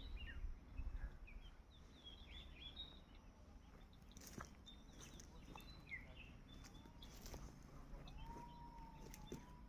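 Faint birdsong: several birds giving short, quick chirps over a quiet background, with a longer held call near the end and a few soft clicks.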